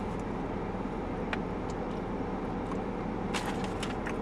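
Steady low hum like a running vehicle heard from inside, with a faint click about a second in and a few short clicks near the end.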